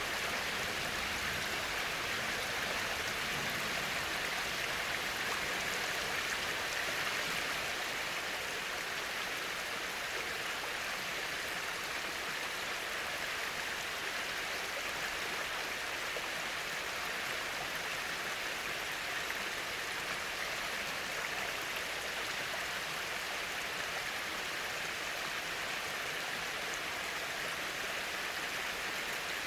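Small waterfall on a creek spilling over a rock ledge: a steady, even rush and splash of falling water.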